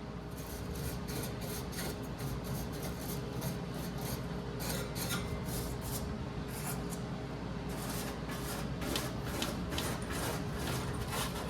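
Scraping and rubbing strokes, a few a second in uneven runs, as the burners of a gas furnace are scrubbed clean, over a steady low hum.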